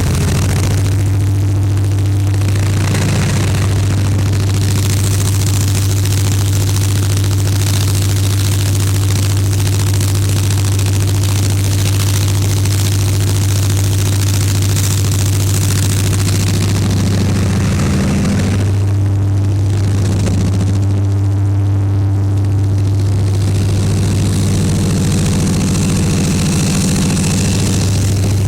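Diesel engine of a 2TE10U locomotive, a 10D100 two-stroke opposed-piston diesel, running steadily under load on a rheostat (resistor-bank) load test: a loud, constant deep hum with a rushing noise over it, the upper noise easing for a few seconds about two-thirds of the way through.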